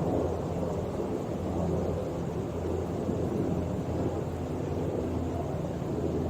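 Distant UH-60 Black Hawk helicopter in flight overhead: a steady low rumble of its rotor and twin turbine engines.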